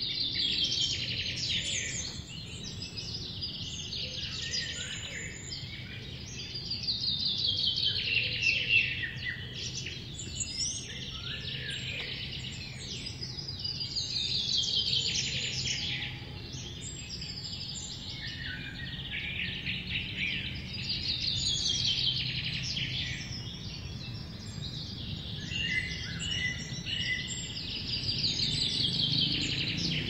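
Songbirds singing: fast trills of rapid notes falling in pitch, repeated every several seconds, with shorter chirps between them.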